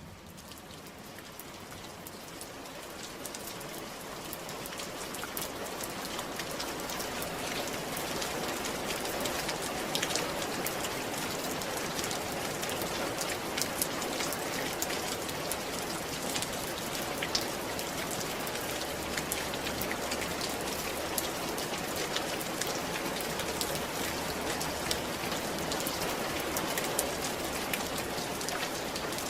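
Steady rain falling on a roof: a dense, even patter with scattered louder individual drops. It fades in over the first several seconds, then holds steady.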